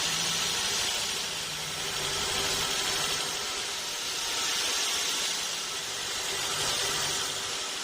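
Homemade bandsaw sawmill running steadily: an even hiss with a low hum that comes and goes and a slow rise and fall in loudness.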